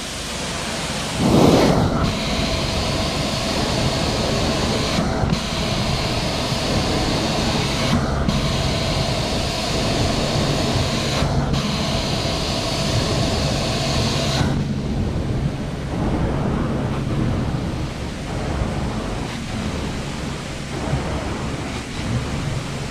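Carpet-cleaning extraction wand on hoses, hissing steadily as it sprays and sucks water from the carpet in repeated strokes, the hiss breaking briefly about every three seconds between strokes. A brief thump about a second in; about two-thirds of the way through the high hiss stops and a lower suction rush carries on.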